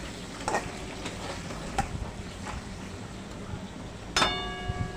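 Potato pieces frying in oil in a kadai: a steady sizzle with a few light clicks. About four seconds in, a sudden short ringing tone cuts in and fades.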